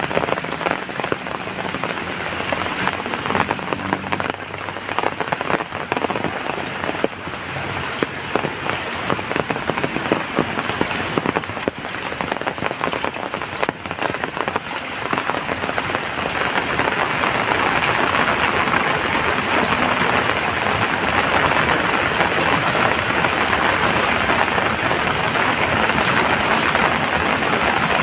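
Rain falling steadily, with many separate drops pattering. It grows heavier and denser a little past halfway.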